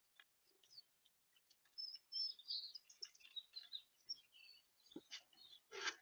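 Small birds chirping: a quick run of short, high chirps and twitters. A couple of sharp knocks follow near the end.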